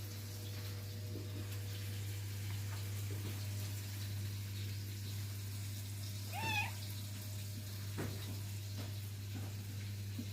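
A domestic cat gives one short meow about six and a half seconds in, over a steady low hum.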